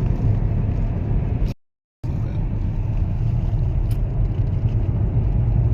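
Steady low road and engine rumble inside a moving car's cabin. It cuts to silence for about half a second about a second and a half in, then carries on.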